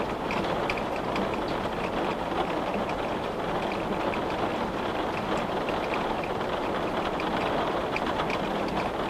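Steady rain with scattered drops ticking against a window.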